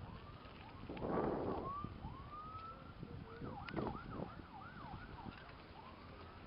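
Distant emergency sirens wailing and yelping, their pitch rising and falling, with a short louder rush of noise about a second in.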